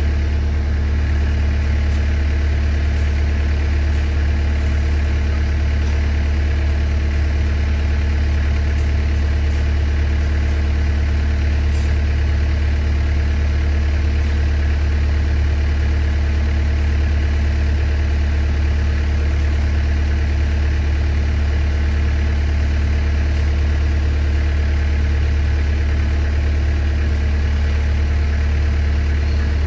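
Skid steer engine idling steadily, warming up.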